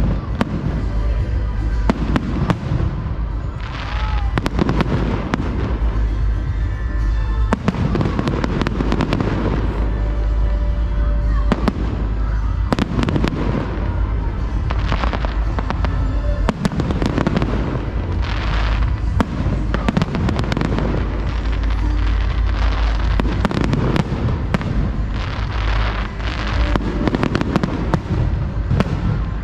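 Fireworks display: a dense, continuous run of bangs, booms and crackles, with music playing underneath.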